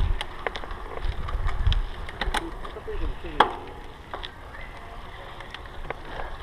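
Low rumble of wind buffeting the microphone, with scattered clicks and knocks throughout and a brief voice about three seconds in.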